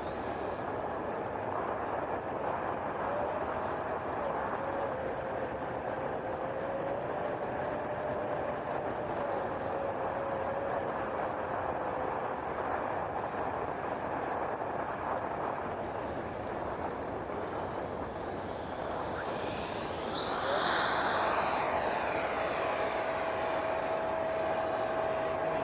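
Electric ducted fan of an FMS BAe Hawk RC jet running in flight, with a steady roar of air over the wings. About 20 seconds in, the fan spools up and its whine climbs to a high steady pitch as the sound grows louder.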